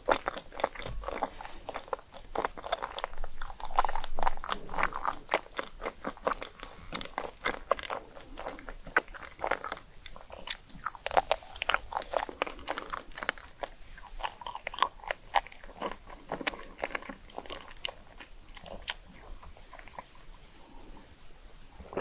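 Rice cakes being bitten and chewed: a rapid run of dry, crackly crunches that grows sparser over the last several seconds.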